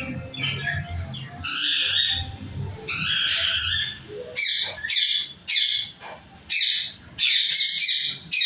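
Parrots squawking harshly: two longer squawks in the first few seconds, then a quick, irregular run of short, sharp squawks from about four seconds in.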